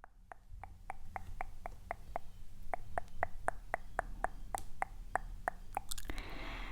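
ASMR tapping: an even run of light, sharp taps at about four a second.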